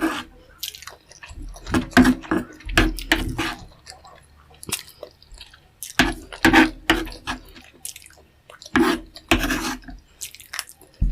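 Close-miked wet eating sounds: chewing, lip smacks and sucking, in clusters a few seconds apart.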